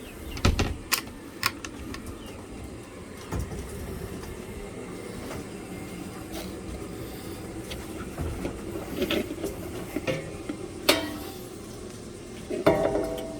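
Knocks and clinks of feed containers being handled while chicken feed is scooped. There is a cluster of sharp knocks about half a second in and scattered ones later, loudest near the end, over a steady low background.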